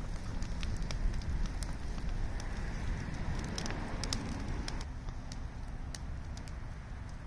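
Wood fire crackling, with many scattered sharp pops and snaps over a steady low rumble.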